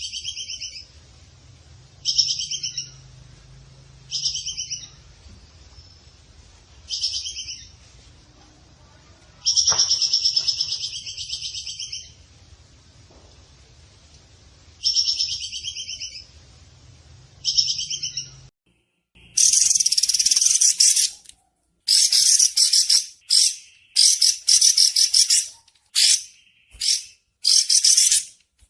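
Recorded animal calls for a masteran: short, rapidly pulsed chattering calls, high in pitch, repeating every two to three seconds over a low hum. About two-thirds of the way through, the recording cuts to louder, closer bursts of the same kind of rapid chatter, coming faster.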